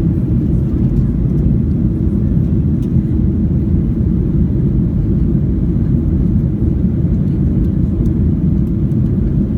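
Steady low rumble of an airliner's engines and rushing air, heard inside the cabin as the plane climbs after takeoff.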